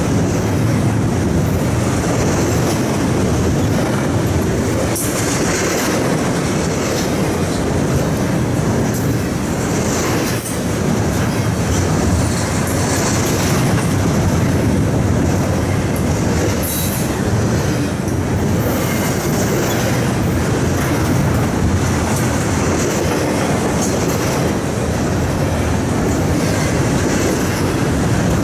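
Train passing at trackside: steel wheels running on the rails with a steady loud rumble and a clickety-clack over the rail joints.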